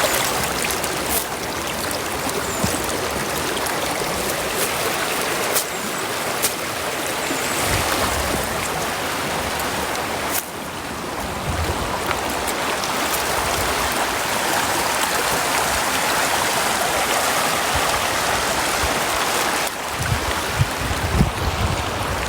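River water flowing, a steady even rush of moving water, with a few brief clicks and low bumps here and there.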